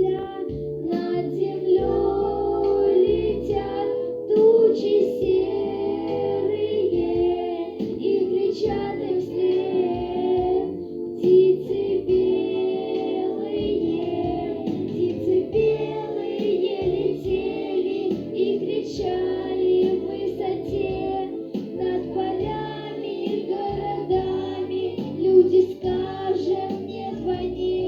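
A song: a voice singing over steady instrumental backing.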